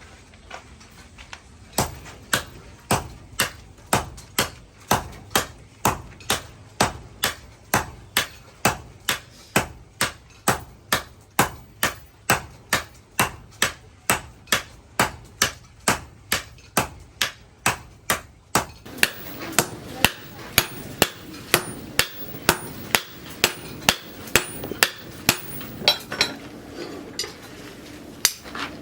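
Hammer blows on steel rebar on an anvil, struck in a steady rhythm of about two blows a second, as the bar is forged into a sickle. Each blow is a sharp metallic strike.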